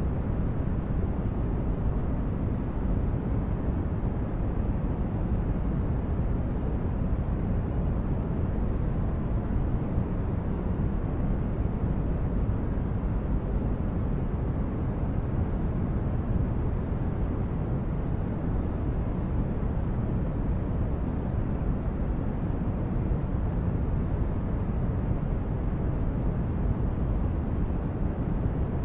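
Synthetic spaceship ambience: a steady, deep rumbling hum of noise, even in level throughout, with a faint high tone.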